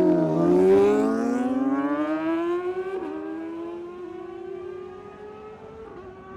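Superbike engine launching and accelerating hard down the drag strip, its pitch climbing steadily with two quick gear changes about three and six seconds in, growing fainter as it pulls away.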